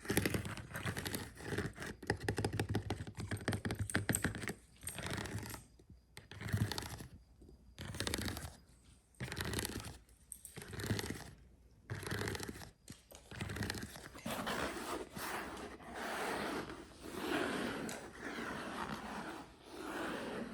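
Scratching and scraping on a dog toy. Quick dense scratching for the first few seconds, then separate strokes about once a second, then steady scratching from about two-thirds of the way in.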